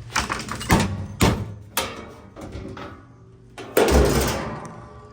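Sheet-metal cabinet panel of a front-load washer being knocked and worked loose: four sharp knocks, then a louder bang with a low thud about four seconds in, followed by a ringing rattle that fades.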